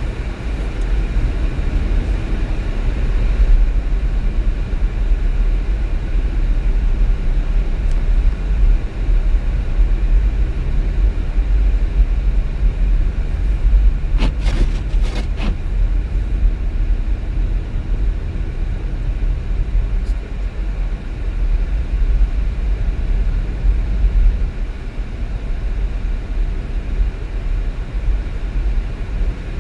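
Car driving along the road: a steady low rumble of engine and tyre noise, with a short run of sharp clicks about halfway through.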